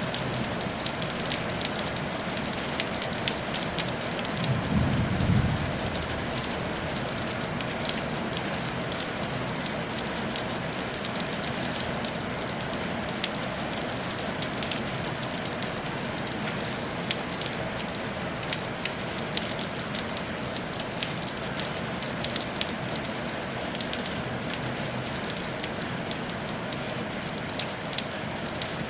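Steady rain falling on a tile roof: an even hiss with many individual drops ticking. A brief low rumble about five seconds in is the loudest moment.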